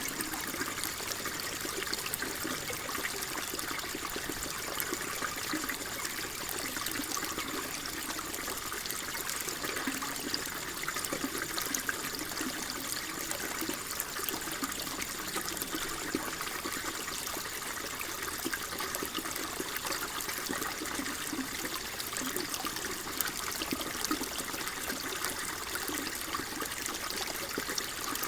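Water flowing and trickling steadily, a continuous babbling with fine splashy detail and no change in level.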